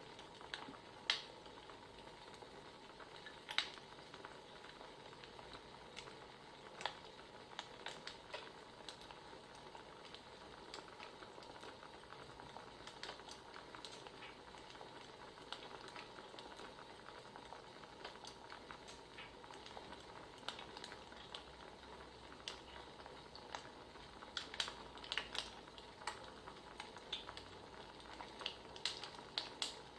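Wood fire crackling: a soft steady hiss with irregular sharp pops and snaps, coming thicker near the end.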